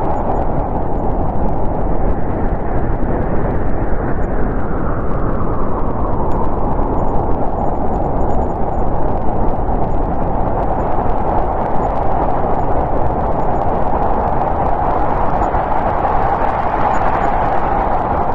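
Snowstorm wind blowing hard: a steady rushing noise whose whistling tone sinks a few seconds in and rises again near the end.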